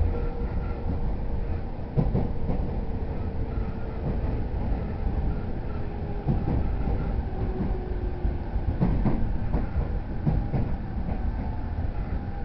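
JR East E231-0 series commuter train running on the rails: a steady rumble with a few sharp clicks from the wheels over rail joints, and a thin motor tone that slowly falls in pitch.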